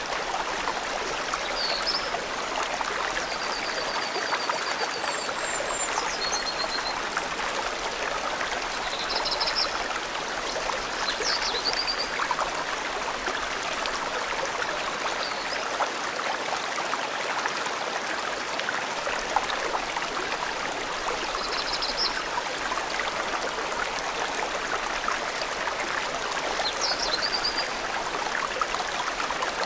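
Forest stream or small river running steadily, with birds giving short, high chirps and trills now and then.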